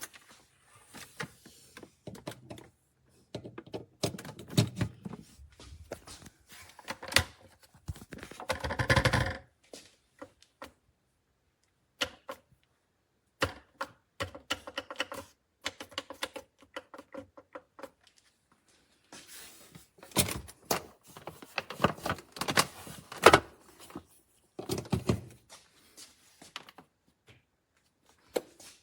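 Irregular clicks, taps and clunks of hard plastic parts being handled and fitted, in scattered clusters with short pauses and a denser, louder rattle about nine seconds in.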